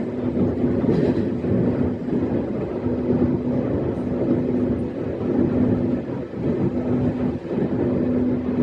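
E131-series electric train running along the line, heard from inside the front of the train: a continuous rumble of wheels on track with a steady hum that dips briefly now and then.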